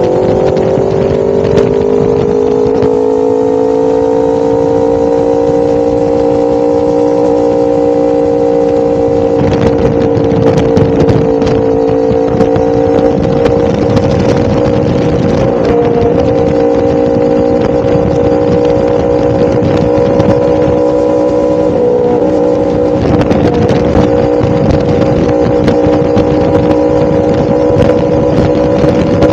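1000cc motorcycle engine running under way at a steady cruising speed, its pitch rising a little over the first few seconds and then holding nearly level.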